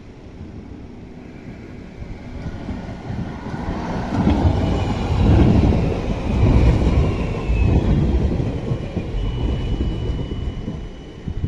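Low-floor tram passing close by: the running rumble of its wheels on the rails builds from about three seconds in, is loudest through the middle and then eases. Thin high whines sound over it, with one steady high whine near the end.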